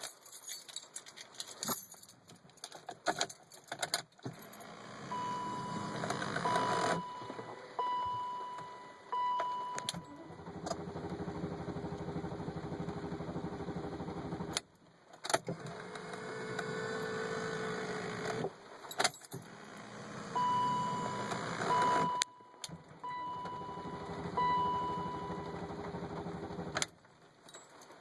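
BMW 540i being cranked on the starter, heard from inside the cabin: the engine turns over in three long tries that each stop short without catching, a crank-no-start. Key clicks and a run of four chime beeps come before the first and the last try.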